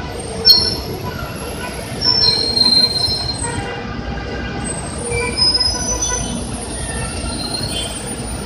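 Heavy buses on a busway: a steady low engine-and-traffic rumble with several high-pitched brake squeals. A sharp click-like squeal comes about half a second in, the loudest moment, and a longer squeal follows around two to three seconds in.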